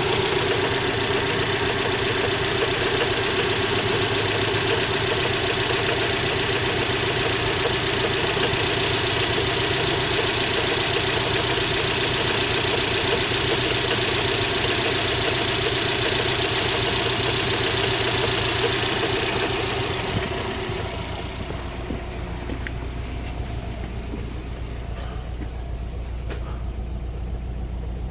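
2011 Subaru WRX's turbocharged flat-four idling after a cold start, with the knock noise the owner hears only while the engine is cold. About twenty seconds in, the sound drops in level to a quieter, lower, steady hum with a few faint ticks.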